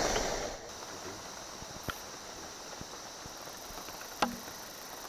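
Rain dripping through the rainforest, scattered drops tapping on leaves, with one louder tap about four seconds in, over a steady high-pitched insect hum.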